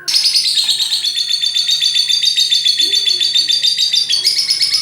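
Lovebird doing a long ngekek: an unbroken, rapid chattering trill of sharp high notes, around ten a second, shifting slightly higher in pitch near the end.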